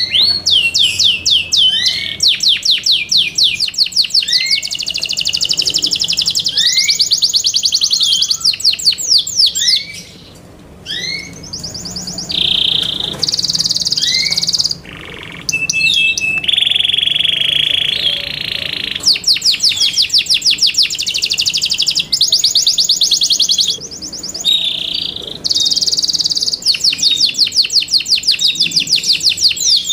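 Yorkshire canary singing a long, loud song of fast repeated trill notes. The song breaks off briefly about ten seconds in, and a buzzy held phrase comes in the middle.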